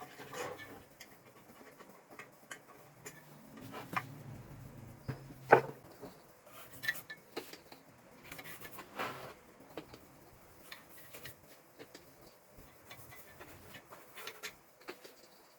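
Handling noise at a workbench: scattered clicks, taps and light knocks of tools and parts being picked up and set down, with one sharper knock about five and a half seconds in.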